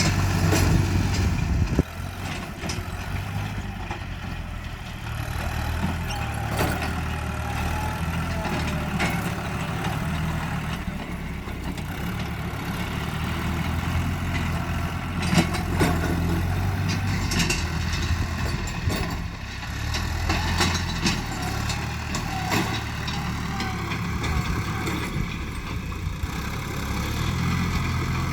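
Tractor engine running steadily while levelling a rice field, with a sudden drop in loudness about two seconds in and occasional metallic knocks.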